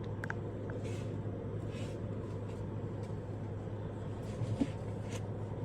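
A steady low room hum with background noise, broken by a few faint soft clicks.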